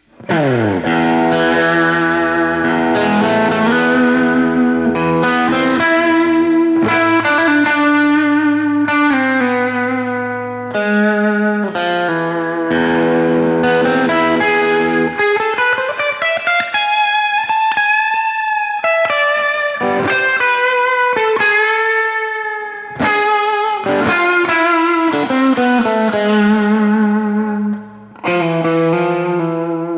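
Electric guitar playing sustained chords and melodic lines, each note ringing out. About halfway through, a note glides upward as it is bent or slid.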